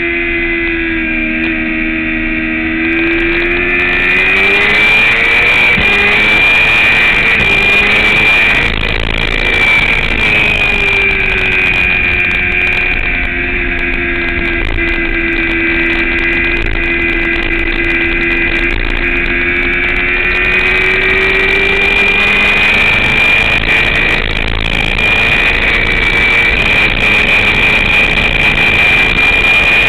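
Motorcycle engine heard onboard during a track lap, its revs dropping into a low steady note and then climbing again, twice, as the bike slows for corners and accelerates out.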